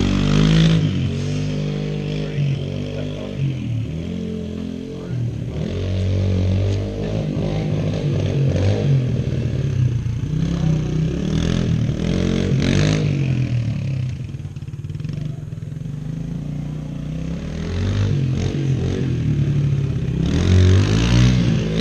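Small dirt bike engine revving up and easing off over and over as it is ridden, its pitch rising and falling.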